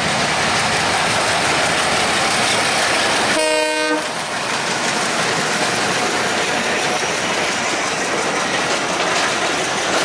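Diesel passenger train passing close by: the locomotive's engine and the coaches' wheels on the rails make a loud, steady rumble. A short horn blast sounds about three and a half seconds in, then the coaches keep rolling past, their wheels clattering on the track.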